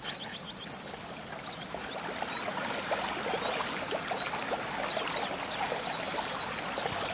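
A stream running and trickling, growing louder over the first couple of seconds, with short bird chirps high above the water sound.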